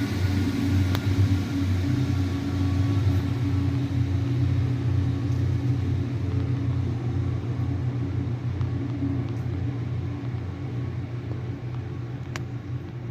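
Class 150 Sprinter diesel multiple unit running as it pulls out and moves away, a steady low engine drone that slowly fades.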